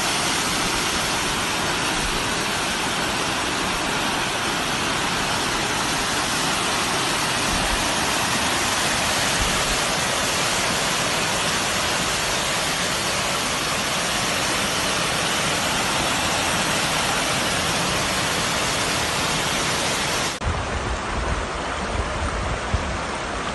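Steady rush of falling or flowing water, like a waterfall or stream. About twenty seconds in it cuts abruptly to a duller, rougher rush with a low rumble.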